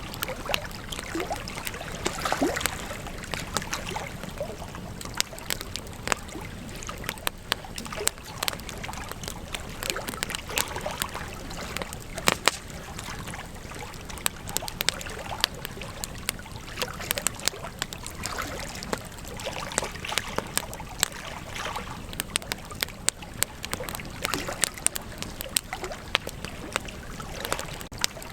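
Wood campfire crackling, with frequent sharp pops and snaps at irregular intervals over a steady hiss.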